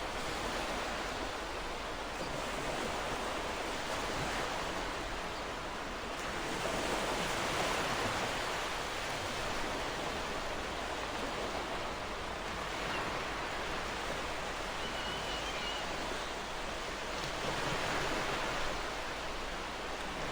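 Ocean waves breaking and washing on a shore, a continuous hiss of surf that swells gently about every ten seconds.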